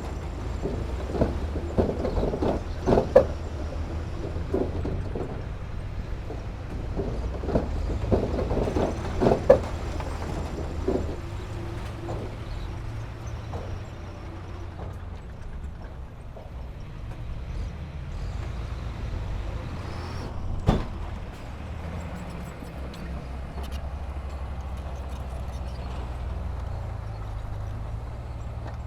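Diesel engine of heavy earthmoving equipment running steadily, with two spells of clanking and knocking, metal and rock striking, and one sharp bang about two-thirds of the way through.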